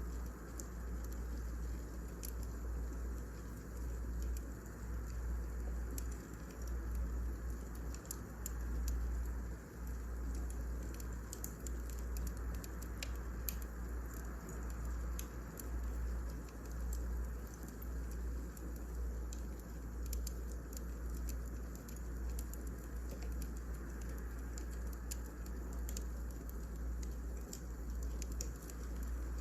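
Wood fire crackling: irregular sharp pops and ticks over a steady low rumble.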